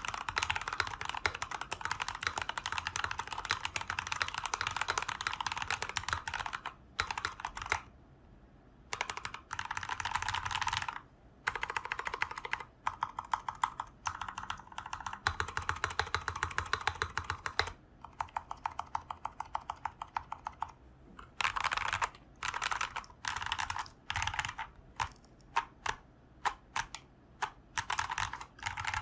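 Acrylic sandwich 60% mechanical keyboard with Tecsee Jadeite switches being typed on fast: dense runs of keystrokes broken by short pauses. Near the end the typing thins out to separate single keystrokes, about one or two a second.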